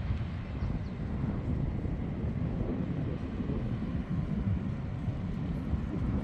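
Wind buffeting the microphone outdoors: a steady low rumble without any distinct events.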